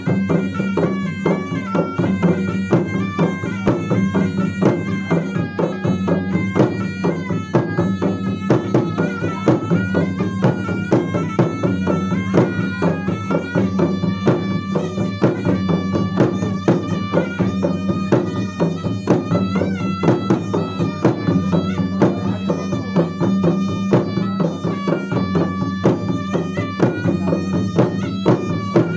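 Makassarese gendang ensemble: rapid, dense drumming on ganrang drums under a continuous reedy melody from a pui-pui double-reed pipe.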